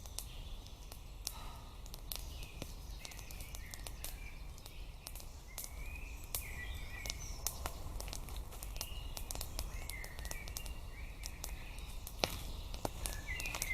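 Small forest birds chirping in short scattered phrases, over a low rumble, with many sharp clicks and snaps throughout.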